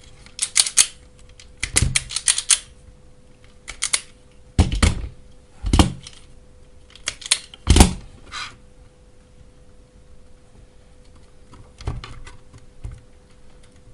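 Hand tools clicking and tapping on a workbench: clusters of sharp clicks and knocks over the first nine seconds, a couple more near the end, over a faint steady hum.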